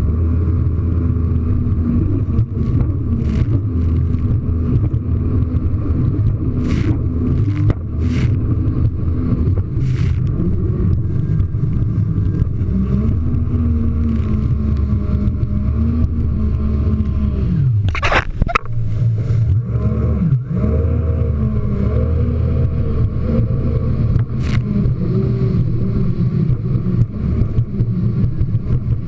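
Jet ski engine running at speed, its pitch rising and falling as the throttle changes and the craft rides over waves, with a sudden drop and sweep in pitch about two-thirds of the way through. Several brief sharp slaps of the hull hitting the water cut through it.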